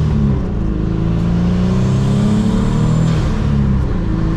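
Turbocharged Pontiac Grand Am GT engine accelerating through the gears. Its pitch climbs, drops at a gear change about half a second in, climbs steadily again, and drops at another shift about three and a half seconds in. The car has an exhaust leak that the owner calls terrible.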